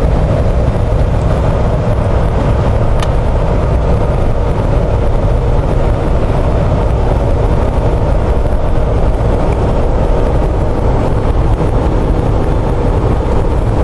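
Steady highway-speed drive noise of a Jeep Wrangler JK with a Chevy 5.3 LS V8, running on cruise control: constant engine drone mixed with tyre and wind noise. A single faint tick comes about three seconds in.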